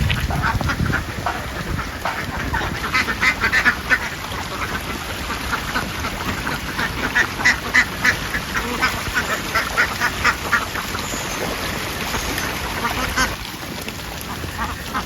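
A flock of ducks quacking, many short calls overlapping in repeated bursts; the calling thins out a little near the end.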